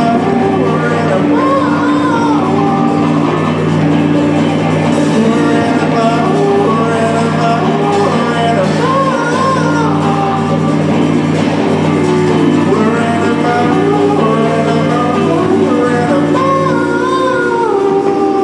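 Live acoustic band music with a singer: a wavering vocal melody over steady, held low notes.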